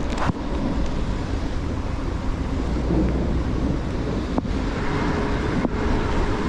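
Thunder crackling and rumbling under heavy rain, with wind noise on the microphone. There are two sharp ticks in the second half.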